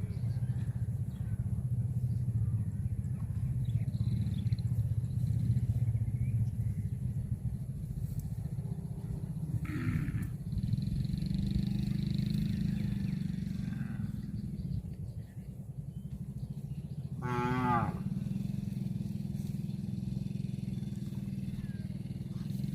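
Cattle mooing: long, low moos, with one shorter, higher, wavering call a little past the middle.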